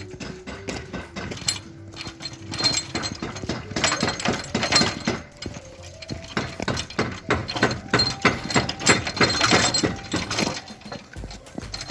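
Irregular rattling and clattering knocks, loudest about four and nine seconds in, over faint background music.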